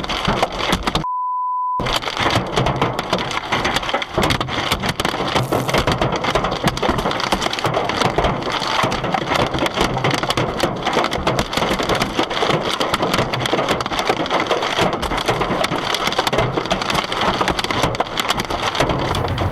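Heavy downpour: a steady rush of falling water thick with sharp cracking and clattering impacts on hard surfaces. A short censor beep cuts in about a second in.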